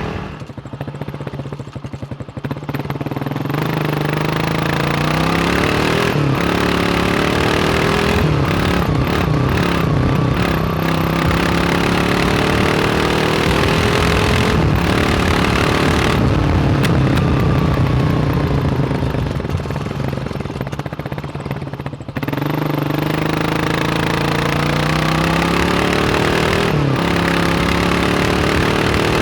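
1987 Kawasaki KLR 600's single-cylinder four-stroke engine under way. It drops off-throttle at the start, then pulls up through the gears with several rising runs of revs broken by shifts. It eases off and winds down around twenty seconds in, then picks up again sharply.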